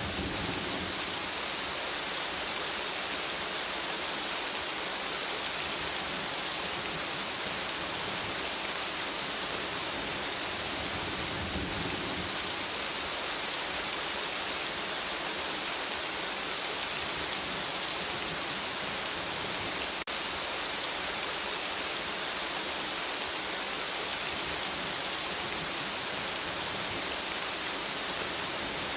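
Steady rain falling on a forest, an even hiss of drops. A low rumble swells briefly about a third of the way in and again near the end.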